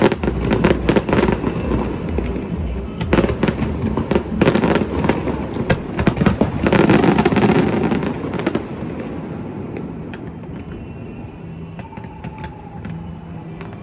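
Aerial fireworks bursting in rapid, dense volleys of bangs and crackles that die away after about nine seconds, leaving a few scattered pops over music.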